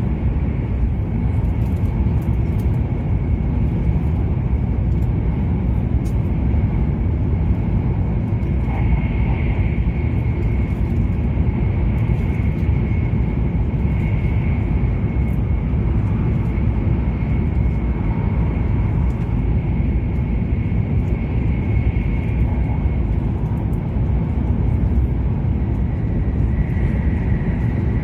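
Steady low rumble of an E7 series Shinkansen running at speed, heard inside the passenger cabin, with a thin, steady high whine over it.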